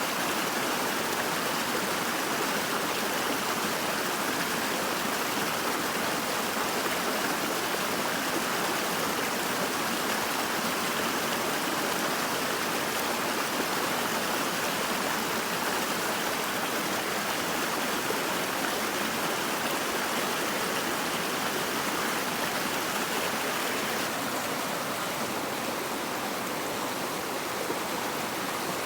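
Steady rush of flowing stream water, with no separate splashes or knocks. It turns slightly duller about four seconds before the end.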